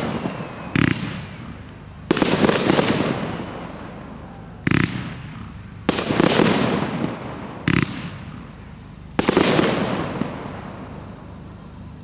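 Professional display fireworks going off: short sharp bangs, each followed about a second later by a longer, louder burst that fades away over a second or two, three times in a row.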